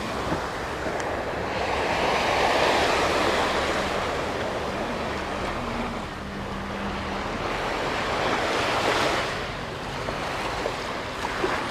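Small sea waves breaking on a sandy beach and washing back, the surf swelling and easing every few seconds, with wind buffeting the microphone.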